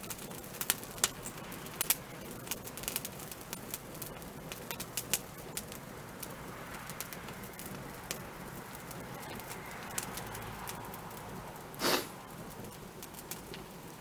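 Wood fire crackling: irregular sharp pops and snaps over a soft, steady hiss, with one louder, longer pop near the end.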